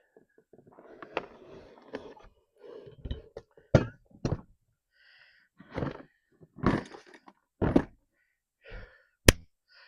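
A string of separate knocks, clunks and scrapes as tools and parts are moved about in a search for a small dropped part, with a sharp knock near the end.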